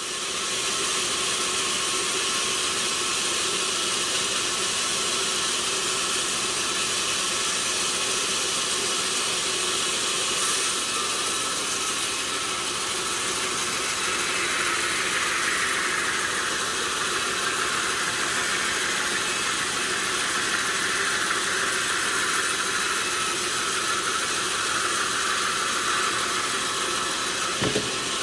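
Sawmill machinery running steadily with a loud, noisy sound. From about halfway in, a higher band of noise swells, then eases near the end.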